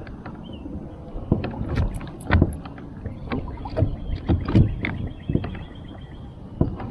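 Brooklyn Kayak PDL 10 pedal kayak with a fin drive being pedaled hard under way: irregular knocks and splashes of the drive and hull in the water, a few a second.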